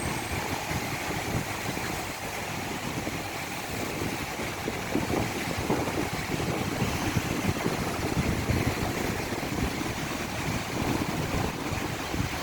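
Rough sea surf washing steadily, with wind buffeting the microphone in uneven low rumbles.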